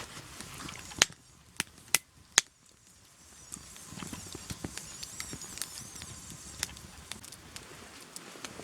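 Wood campfire crackling: a few sharp pops in the first seconds, then a softer hiss with small crackles.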